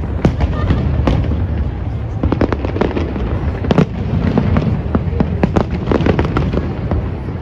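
Fireworks display going off: many sharp bangs and pops in quick succession over a steady low rumble.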